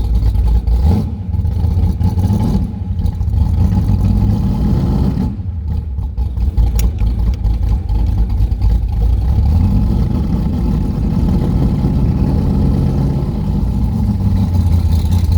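C3 Corvette's carbureted V8 running under way, heard from the open cockpit with the top down, its note easing off briefly about five seconds in, then pulling again.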